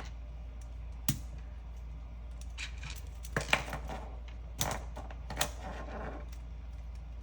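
Plastic Lego bricks being handled and pressed together: scattered sharp clicks and clatter, one about a second in and several more in the middle, over a steady low hum.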